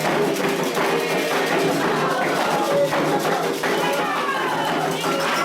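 Candomblé ritual music: hand drums beating a steady rhythm under a group of voices singing, with the singing coming up more strongly near the end.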